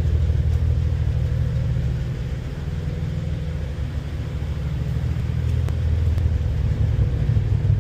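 Exhaust of a 2016 Cadillac ATS-V's twin-turbo 3.6-litre V6, fitted with a ZZP cold-air intake and tune, running with a steady low drone. The drone eases slightly about two seconds in and comes back up near the end.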